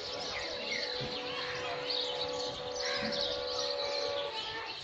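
Many small birds chirping and twittering over one another, with a steady low hum underneath that stops near the end.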